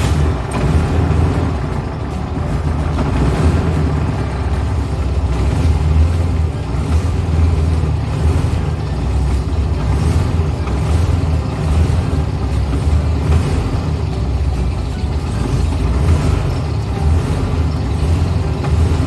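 A 1970s Volkswagen's engine running steadily with a low rumble.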